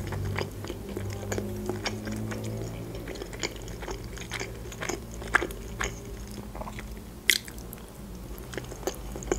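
Close-miked chewing of soft boiled pelmeni dumplings, with many small mouth clicks and a sharper click about seven seconds in.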